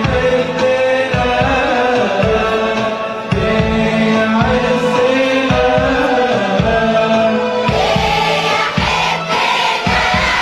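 Church choir singing an Arabic Christmas hymn medley, with an accompaniment that keeps a steady beat.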